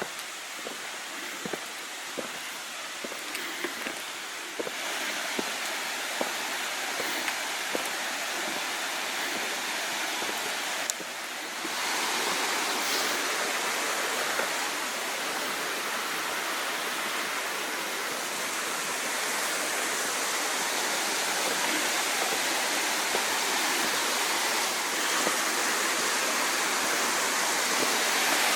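Creek rushing below, a steady hiss of running water that grows louder about five seconds in and again about twelve seconds in. Footsteps click faintly in the first few seconds.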